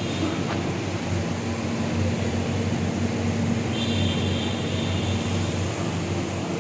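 Machinery running with a steady low hum, a faint steady tone joining about two seconds in and a faint high whine near the middle.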